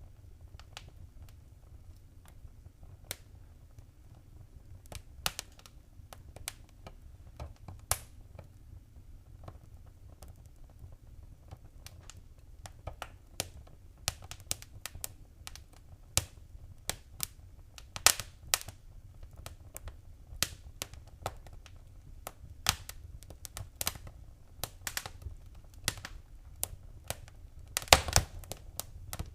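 Wood fire crackling: irregular sharp snaps and pops over a low steady rumble. They are sparse at first and grow busier about halfway, with one louder pop past the middle and a quick cluster of snaps near the end.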